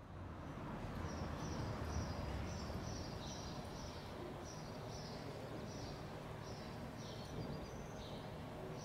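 Outdoor ambience: a steady low rumble with a small bird chirping over and over, short high chirps about twice a second.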